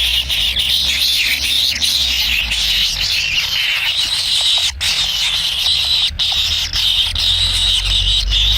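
Kingfisher chicks begging in the nest: a continuous, raspy chorus of many short, overlapping calls.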